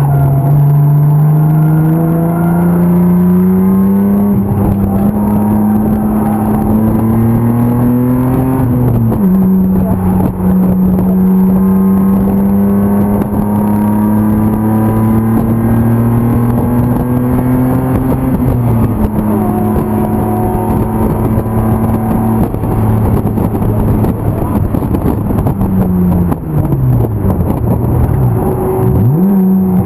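BMW M50 inline-six engine of an E36 race car running hard under throttle. The revs climb slowly and drop at a gear change about nine seconds in, then climb again and level off. Near the end they fall sharply and pick up again.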